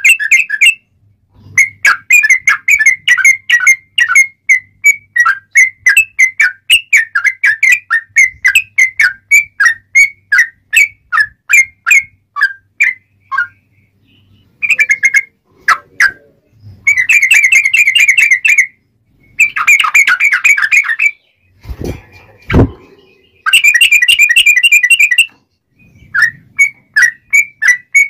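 Yellow-vented bulbul (cucak trucuk) singing: a long run of quick repeated chirping notes, about three or four a second, that thins out around halfway, then three dense bursts of rapid chattering song. Two sharp knocks come just before the last burst.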